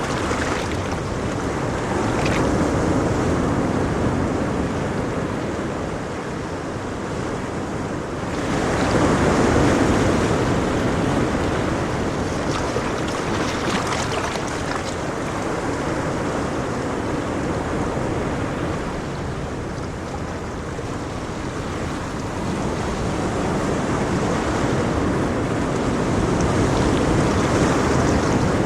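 Ocean waves washing onto a shore, a continuous surf rush that swells and ebbs slowly, with the loudest wave about nine seconds in.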